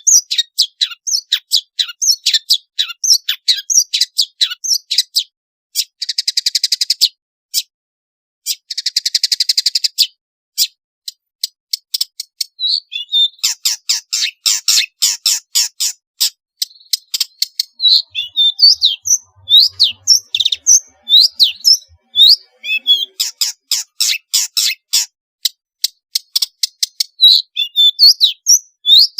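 Long-tailed shrike (pentet) singing a fast, varied song of sharp, high chirps and whistled notes, with two short buzzy rattles about six and nine seconds in.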